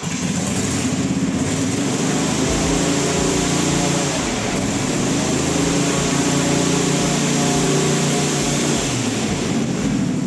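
Airboat's engine and rear air propeller running steadily and loud as the boat moves through very shallow water, a pitched engine note under a strong rush of propeller wind.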